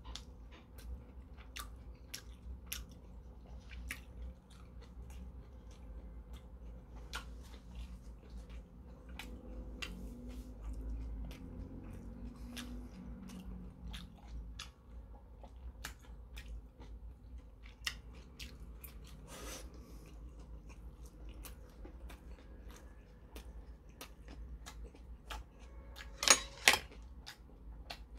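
A person chewing and eating steamed dumplings close to the microphone: many small wet mouth clicks and smacks, on and off throughout. Two sharp, louder clicks come near the end.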